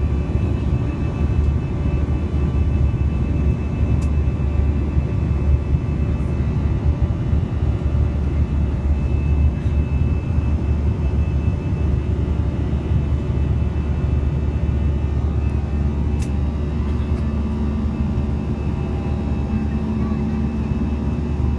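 Steady drone of an airliner's jet engines heard inside the passenger cabin: a continuous low rumble with faint steady tones above it.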